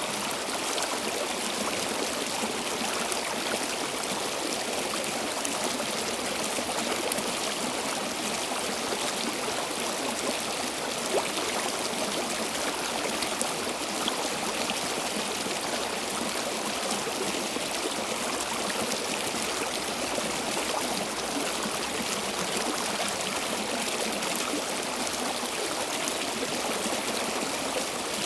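Small stream flowing steadily over stones, a continuous rush of water with fine trickling and splashing.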